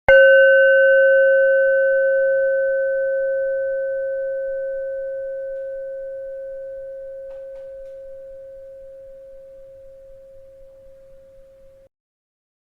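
A bell struck once, ringing with a clear tone a little above 500 Hz and a few fainter higher overtones, fading slowly for about twelve seconds and then cutting off abruptly.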